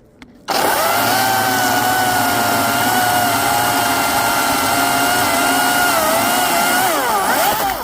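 Ego CS1611 battery-powered 16-inch chainsaw running at full speed while cutting into a wood stump, a steady high electric-motor whine. Near the end the pitch wavers and drops, then the sound cuts off suddenly as the trigger is let go.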